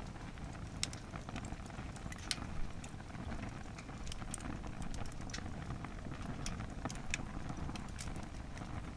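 Wood fire burning hard in a campfire pit, overloaded with firewood: a steady low rumble with scattered sharp crackles and pops from the burning wood.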